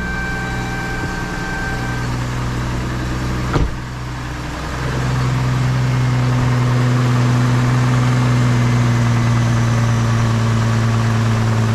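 A 2005 Isuzu SUV's Vortec 4200 inline-six idling smoothly, its misfire cured by a new ignition coil pack. There is a brief click a few seconds in, and the engine sound steps up in loudness about five seconds in, then holds steady.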